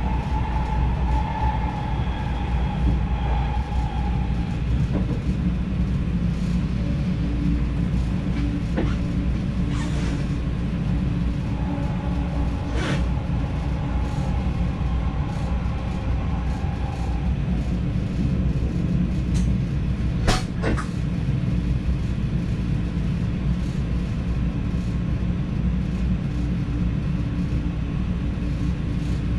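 NS DDZ double-deck electric train running along the line with a steady rumble and faint steady tones that come and go. A few sharp clicks stand out, the loudest about two-thirds of the way through.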